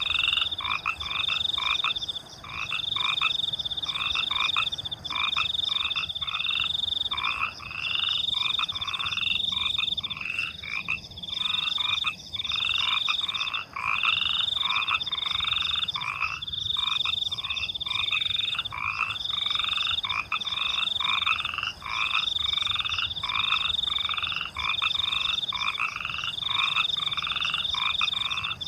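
A night chorus of frogs croaking in a fast, steady repeating rhythm, many calls overlapping. A high, nearly continuous cricket trill runs above them.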